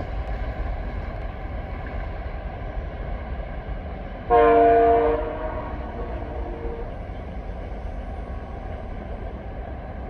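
Diesel locomotive's multi-tone horn sounding one blast of about a second, some four seconds in, its chord trailing off over the next couple of seconds, over a steady low rumble.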